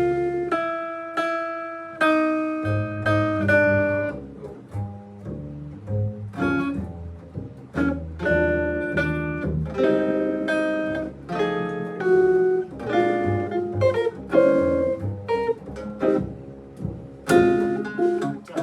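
Guitar and bass playing a passage through a tune's chord changes, a run of plucked notes and chords over a walking low bass line.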